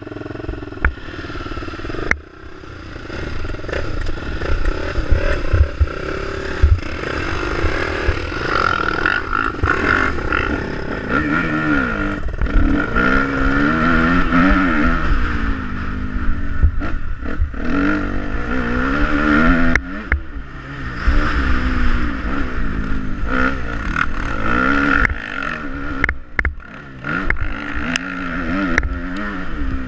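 Motocross bike engine being ridden, its revs repeatedly rising and falling with throttle and gear changes, over a steady low rumble with scattered knocks.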